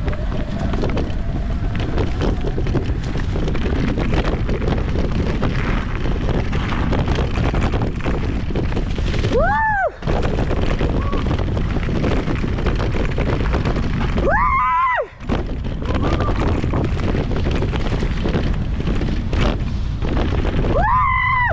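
Heavy wind buffeting on an action-camera microphone, mixed with the rattle of a mountain bike descending a trail at speed. The roar drops out briefly twice, about ten and fifteen seconds in.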